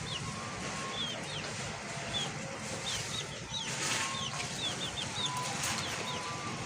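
Small birds chirping: many short, high chirps in quick runs, over a steady background hiss, with a brief rustle about four seconds in.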